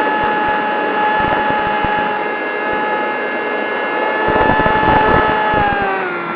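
Electric brushless motor and propeller of a Zohd Talon GT Rebel RC flying wing, a steady high whine at held throttle that drops in pitch near the end as the throttle comes back. Wind buffets the microphone underneath.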